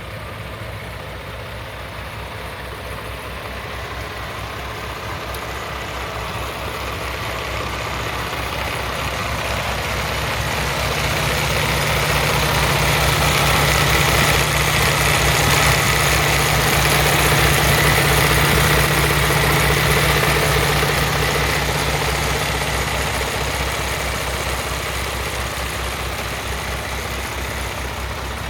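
Paccar MX-11 inline-six diesel of a 2021 Peterbilt 579 day cab idling steadily. It grows louder toward the middle and fades again near the end.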